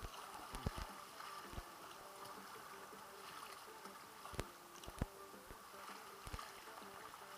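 Kayak on the sea: water sloshing and lapping at the hull, with a few sharp knocks scattered through, the loudest about four and five seconds in.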